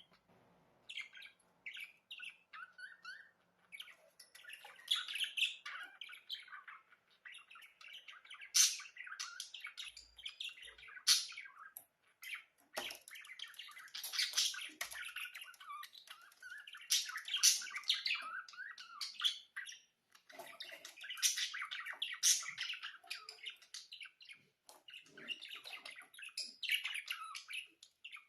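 Pet budgerigars chirping and chattering, a dense run of short, irregular high calls with brief pauses.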